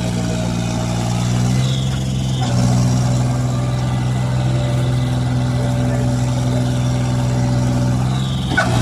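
Tractor engine running steadily, its note shifting slightly about two and a half seconds in.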